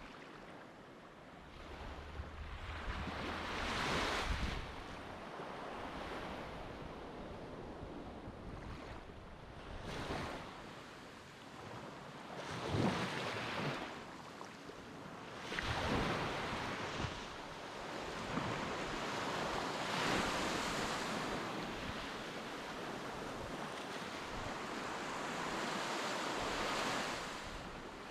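Sea waves breaking and washing up the beach, with several swells a few seconds apart.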